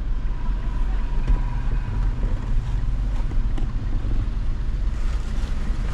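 Steady low rumble of an idling car, heard from inside the cabin, with a few faint knocks as a passenger climbs out through the open side door.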